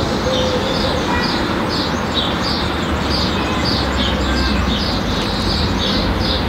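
Small birds chirping, short high chirps repeating a few times a second, over a steady rushing background noise.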